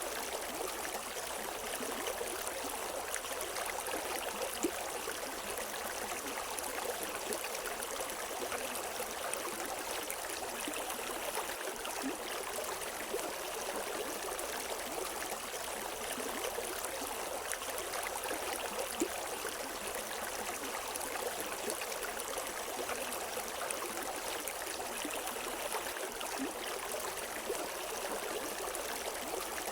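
River water flowing steadily over rocks, a constant rushing with small splashes and trickles and no birdsong.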